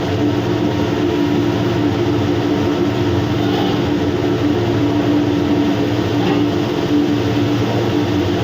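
Steady machinery drone with a constant low hum, running evenly without change.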